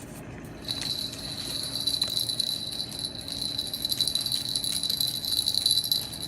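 A small bell toy jingling continuously as it is shaken by a Moluccan cockatoo, starting about a second in.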